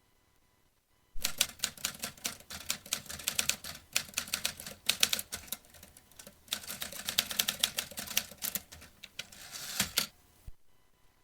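Vintage typewriter being typed on: a fast, uneven run of key strikes starts about a second in, eases briefly midway, and stops a second or so before the end with one last clack.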